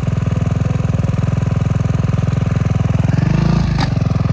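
Dirt bike engine idling steadily close by, its note shifting a little about three seconds in, with one sharp click shortly before the end.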